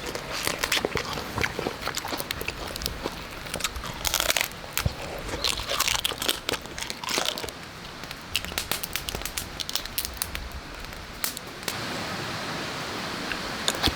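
Crisp crunching and crackling of grilled red snow crab shell being cracked and bitten, many sharp irregular clicks with a few louder crunches, then a steadier hiss from about twelve seconds in.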